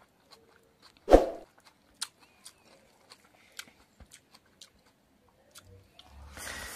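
Close-up eating sounds of a man chewing a handful of rice and pork fat: quick wet smacks and clicks from the mouth, with one louder wet smack about a second in. A soft rustle starts near the end.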